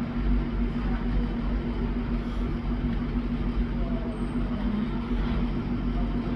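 A train running at a station platform: a steady mechanical hum with a constant pitch over a low rumble.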